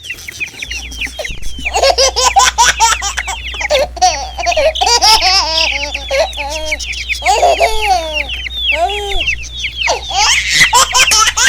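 Many baby chicks peeping rapidly over one another, short high calls falling in pitch, mixed with lower wavering laugh-like calls.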